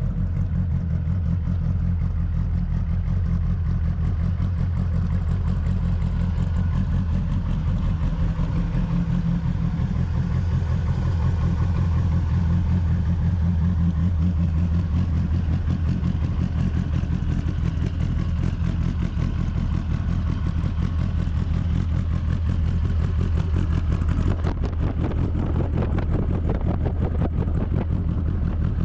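Twin-turbo Dodge Viper's V10 engine running steadily with a deep, even drone, no sharp revving.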